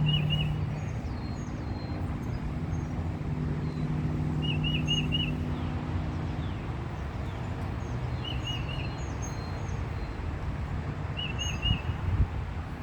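A songbird repeating a short phrase of four quick notes, four times, about every four seconds, with fainter higher chirps from other birds, over a steady low rumble.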